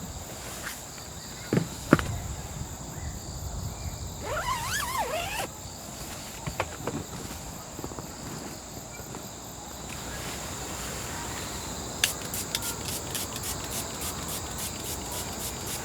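Outdoor insect chorus with a steady high-pitched drone. Two sharp knocks come about two seconds in, a wavering call rises and falls around five seconds in, and from about twelve seconds in a quick, even ticking of four or five clicks a second joins.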